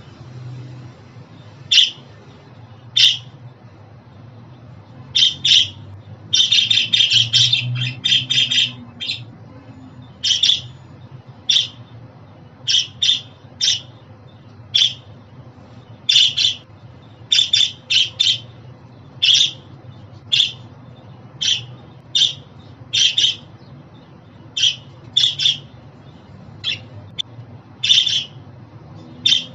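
Budgerigar giving short, sharp chirping calls about once a second, with a quick run of rapid chatter a quarter of the way in, over a faint low hum.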